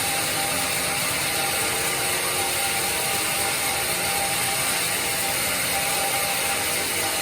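Band sawmill running, a steady dense mechanical noise with a steady high whine through it.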